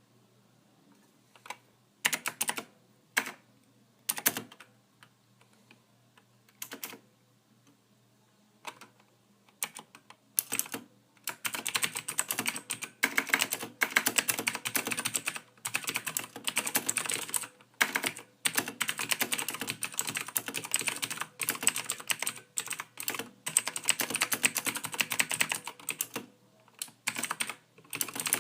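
Computer keyboard being typed on: a few scattered keystrokes at first, then fast continuous typing from about a third of the way in, broken by a couple of short pauses.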